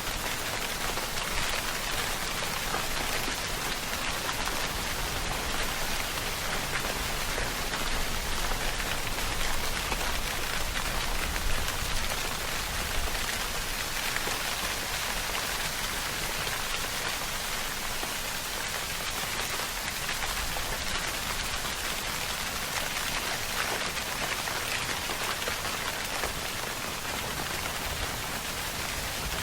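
Steady rainfall, a dense even patter of drops on surfaces.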